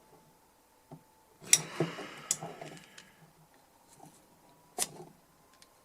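Hands-on work on a small metal DI box: a few sharp clicks and a short stretch of scraping and rustling about a second and a half in, with another single click near the end.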